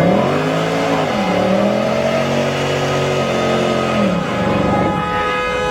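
Car engine being revved: a short rise and fall in pitch, then a second rise held for about two seconds before dropping back about four seconds in.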